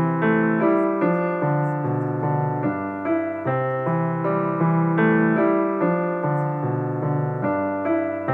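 Solo piano-like keyboard music: a melody of sustained notes over changing bass notes, moving about two to three notes a second with no drums.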